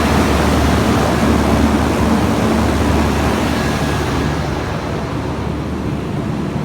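Trane Voyager 20-ton rooftop packaged air conditioner running in cooling: a steady rush of condenser fan air over a low hum. The sound turns a little duller about four seconds in.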